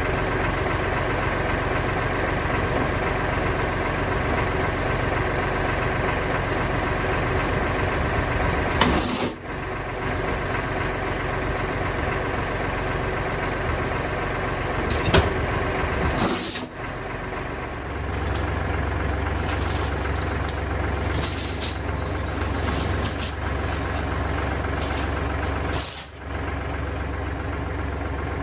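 Kioti DK65 tractor's diesel engine running steadily, with a few short clanks about two-thirds of the way through.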